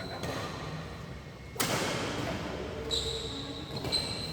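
Badminton in play: one sharp smack of a racket striking a shuttlecock about a second and a half in, followed near the end by two short high squeaks of shoes on the court floor.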